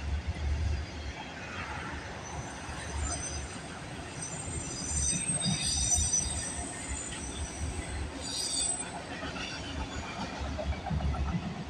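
Freight train cars rolling past with a steady low rumble, and high-pitched steel wheel squeal on the rails from about three to nine seconds in.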